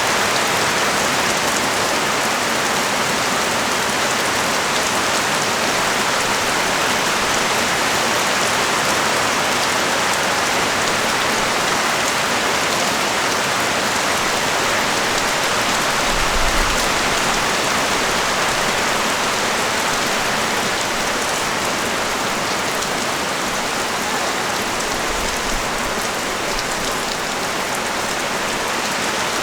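Heavy rain falling steadily on the street and surfaces, an even dense hiss. There is a brief low rumble about halfway through and another near the end.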